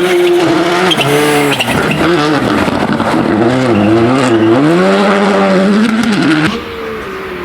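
Rally car engine driven hard, its note rising and falling with throttle and gear changes. About six and a half seconds in, the sound drops suddenly to a quieter engine.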